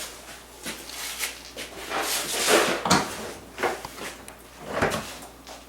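Tools and metal engine parts being handled during teardown of a snowmobile triple-cylinder two-stroke engine: scattered knocks and scrapes, the loudest about halfway through.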